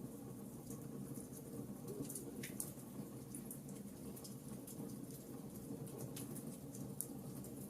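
Wood fire burning in a fireplace: irregular sharp crackles and pops over a steady low rush of flame, with a louder pop about two and a half seconds in and another near the end.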